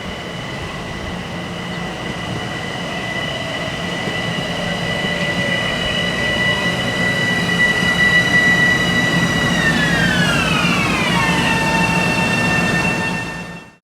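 A train running past, growing louder, with a steady high whine that slides down to a lower pitch about ten seconds in and then holds there; the sound cuts off abruptly at the end.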